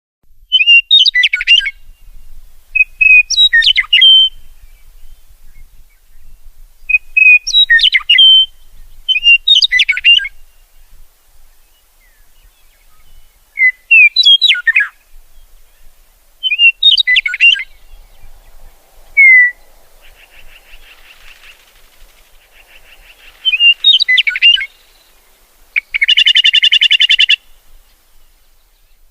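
Birdsong: short, quick sweeping phrases repeated every two to three seconds, then a longer buzzy trill near the end.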